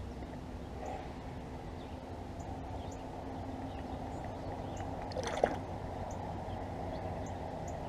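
Muffled, steady wash of river water around a kayak, with one brief knock about five seconds in.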